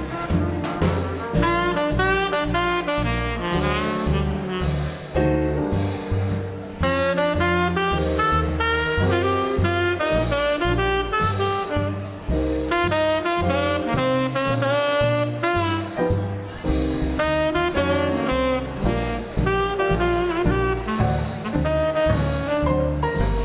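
A small swing combo plays an instrumental chorus of a slow ballad. A saxophone carries the melody over a steady bass line, piano and light drums.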